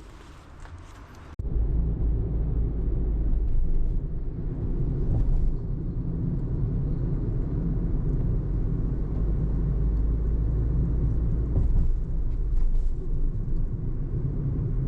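Car driving: a steady low rumble of road and engine noise that cuts in abruptly about a second and a half in, after a short quiet stretch.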